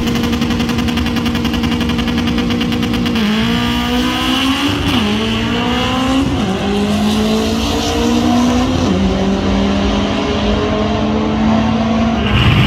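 Drag car engine running at high revs, its pitch holding steady and then dipping and climbing again several times, like gear changes under hard acceleration.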